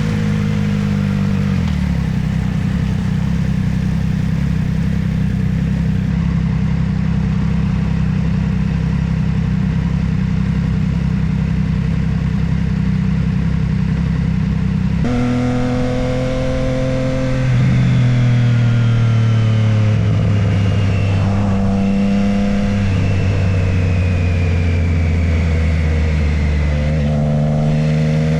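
Motorcycle engine running on the move: a steady cruise, then about halfway through it revs up and changes pitch several times as it shifts through the gears.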